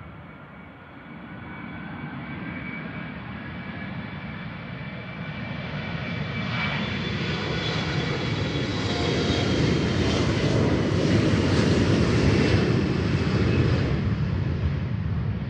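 Embraer E175 regional jet's twin General Electric CF34 turbofans at takeoff power, a high fan whine over a deep rumble. It grows steadily louder to a peak about ten to thirteen seconds in, then eases off slightly.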